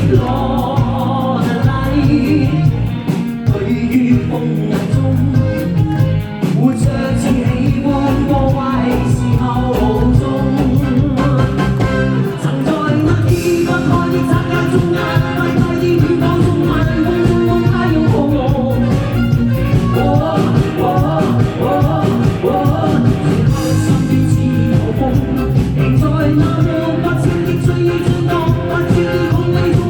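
Live band playing a rock-style Cantopop song with guitar, drums and a singing voice.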